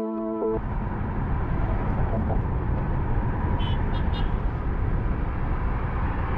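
Car driving on a highway, heard through a dashcam microphone: a steady rumble of road and engine noise. Intro music cuts off about half a second in. Three short, high horn toots sound around the middle.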